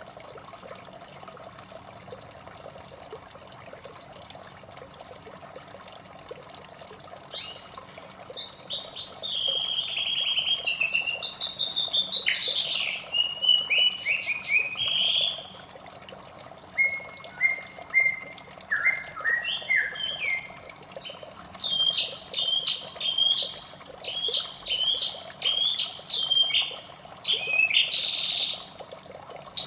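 White-rumped shama singing over a steady trickle of running water. For the first seven seconds or so only the water is heard. Then comes a long run of varied whistled phrases, a string of short falling notes about halfway, and quick repeated high phrases toward the end.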